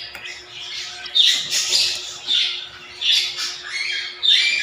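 Pet African lovebirds squawking: a string of short, harsh, high-pitched calls, several each second or two.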